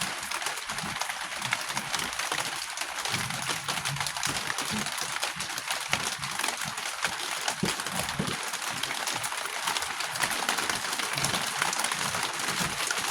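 Steady rain pattering on a roof: an even hiss full of fine ticks, with a few faint low knocks beneath.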